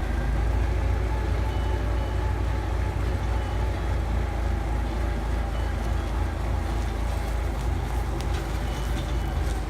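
Tractor engine running steadily with a continuous low rumble.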